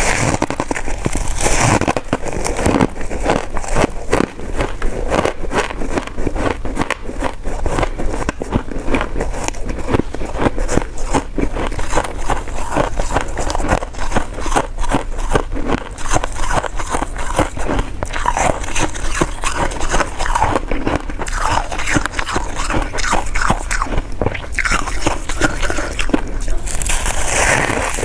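Close-miked eating of coconut sticky rice cake: continuous chewing and biting, heard as a dense run of small mouth clicks.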